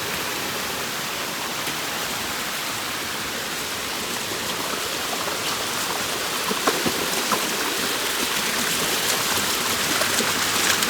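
Rushing water of a river waterfall and stream, a steady hiss that grows slightly louder in the second half, with a few short knocks about seven seconds in.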